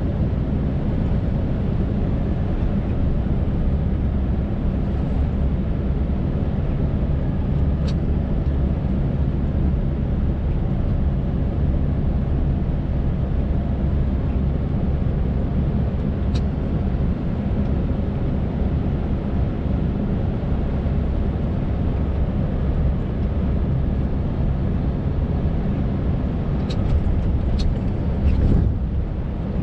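Scania R580 truck's V8 engine running steadily while driving, heard from inside the cab along with road noise, with a few brief clicks, several of them near the end.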